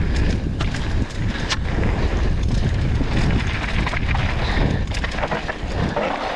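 Wind buffeting the camera microphone during a mountain-bike descent: a loud, gusting low rumble, with sharp clicks and rattles from the bike and tyres on the dirt trail.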